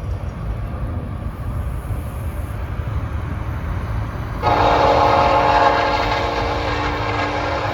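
Locomotive air horn on a Union Pacific SD70ACe sounding one long blast, a chord of several steady notes, starting about four and a half seconds in, over a low rumble.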